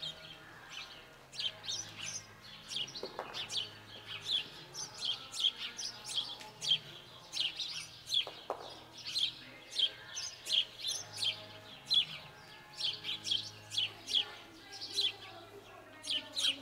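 Small birds chirping steadily: a busy run of short, high, falling chirps, a few a second.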